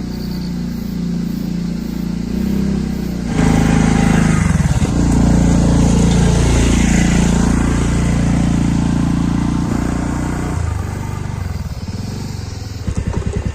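Motorcycle engine running under way on a rough uphill road, getting louder about three seconds in, its pitch rising and falling as the throttle works, then easing off near the end.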